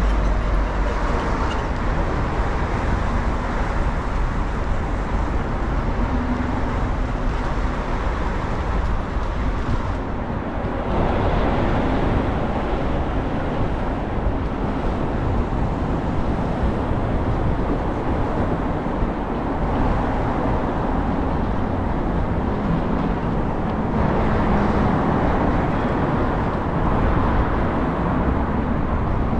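A Muni city bus in motion, heard from inside: steady engine and road rumble with traffic noise, growing brighter about ten seconds in.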